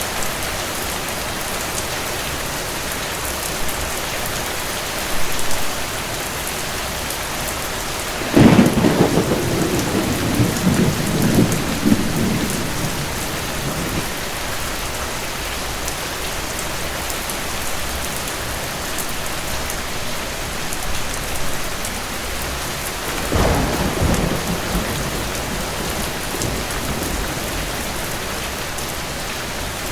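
Steady heavy rain, with two rolls of thunder: a loud crack and rumble about a third of the way in that lasts several seconds, and a shorter, weaker rumble near the end.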